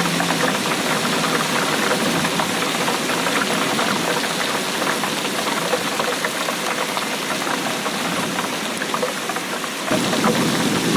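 Steady heavy rainfall, a dense patter of many small drops. About ten seconds in, a deeper rumble joins and it grows slightly louder.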